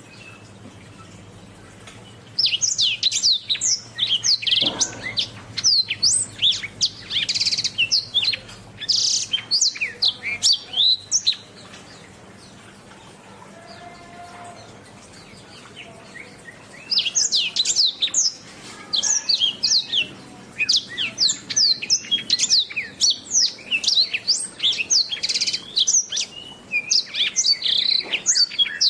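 Domestic canary singing in fast runs of high, sweeping chirps and trills. It sings two long bouts with a pause of about five seconds between them.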